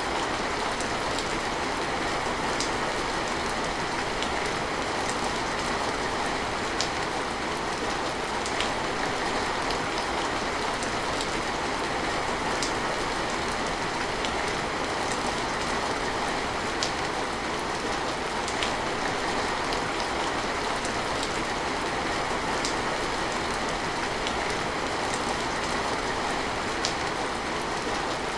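Steady rain falling, an even hiss with scattered sharp drips and patters standing out from it.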